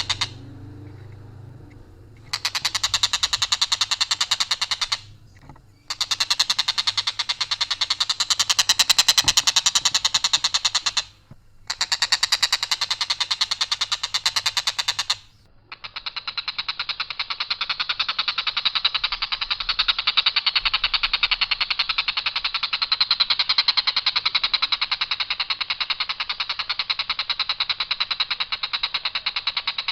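A tengkek buto kingfisher giving a harsh, rapid rattling call in long unbroken runs on one pitch line without variation. It comes in three bouts of a few seconds with brief pauses, then one continuous rattle from about halfway through to the end.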